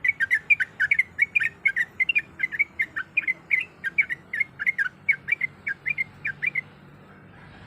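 Yellow-vented bulbul (trucuk) singing a fast run of short, bubbly whistled notes, about four a second, which stops near the end.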